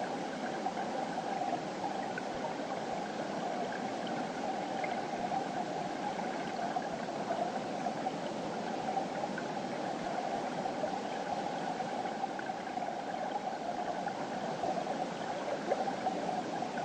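A clear mountain river flowing over rocks: a steady, even rushing and babbling of water.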